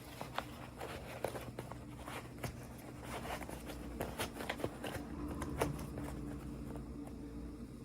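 Hands handling unboxing packaging and small plastic toy pieces: scattered light clicks and rustles, fewer near the end, over a steady low hum.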